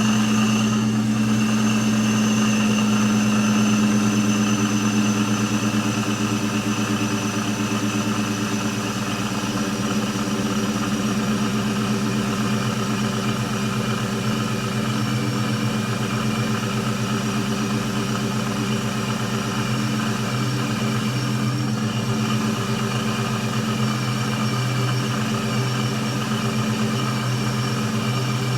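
Supercharged 2003 Mustang GT's 4.6-litre two-valve V8 idling steadily on its first startup after the supercharger build, a cold start after sitting over a month, with a steady high whine over the engine note. The level eases slightly about eight seconds in.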